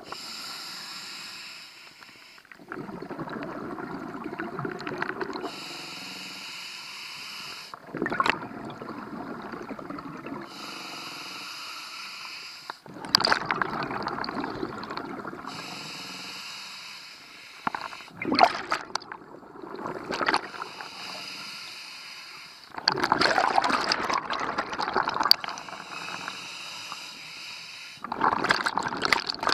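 Scuba diver breathing through a regulator underwater. A hissing inhale alternates with a louder burble of exhaled bubbles, about every five seconds.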